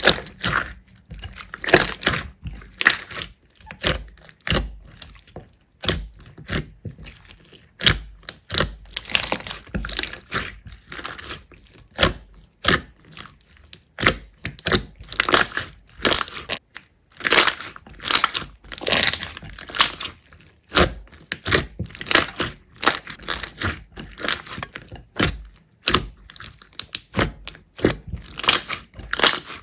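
Slime being pressed and worked by hand, giving dense, irregular crackling and popping clicks.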